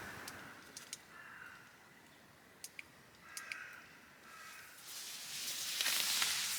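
A few short, faint bird calls and scattered light clicks in the woods, then a loud rustling swell near the end.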